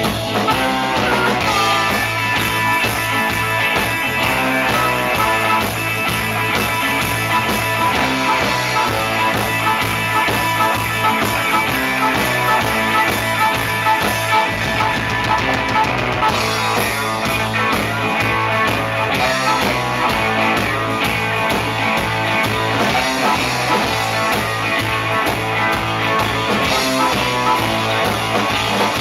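Instrumental rock music with electric guitar and a drum kit keeping a steady beat, no singing.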